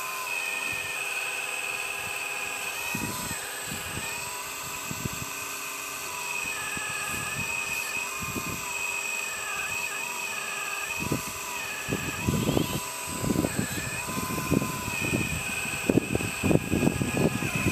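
Hydraulic pump of a 1/12-scale RC4WD Earth Digger 4200XL excavator whining steadily, its pitch dipping and recovering each time a function is worked under load. From about eleven seconds in, a run of louder knocks and scrapes joins it.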